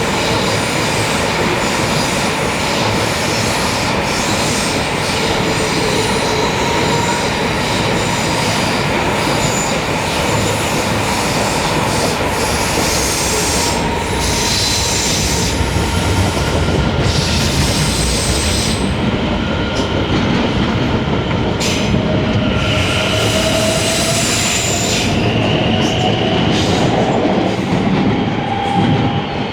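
Electric multiple-unit trains passing one after another on the line below: a Class 745, then Class 710 and Class 720 units, with continuous wheel-on-rail noise, clicking over rail joints and steady whining tones. Near the end a whine rises in pitch.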